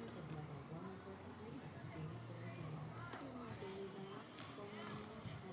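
Crickets chirping in a steady, evenly pulsed high trill during a quiet lull, with no fireworks bangs.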